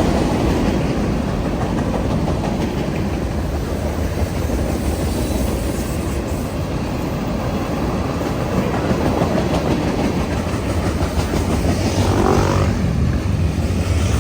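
Freight train cars rolling past at close range: a steady rumble and clatter of steel wheels on the rails.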